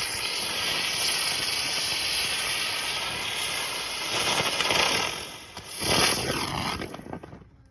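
Consumer spinning fireball ground fireworks (Dominator Star Ball Contribution) hissing and fizzing steadily as they burn, with louder surges about four and six seconds in. The hiss dies away shortly before the end: the fireballs burn out without much hopping.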